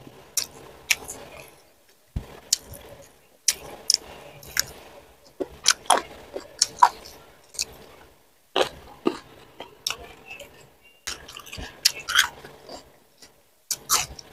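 Close-miked chewing of food, with sharp crunches and wet mouth clicks coming in bursts broken by short silences.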